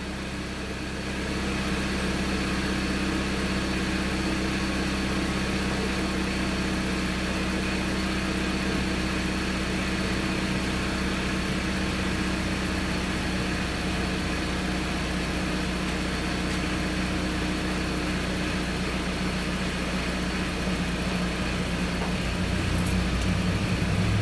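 Car engine idling steadily with an even, unchanging hum; it is the newly installed replacement engine.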